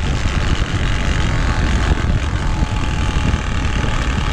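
Turbospoke exhaust on a mountain bike buzzing steadily, its card flapping on the spokes like a small motor while the bike rolls down a dusty trail, with wind rushing over the chest-mounted mic.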